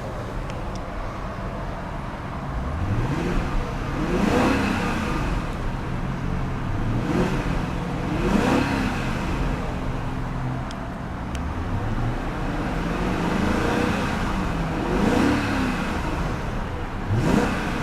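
2001 BMW 740i's 4.4-litre V8 revved several times from idle, each rev rising and falling back, over a steady idle.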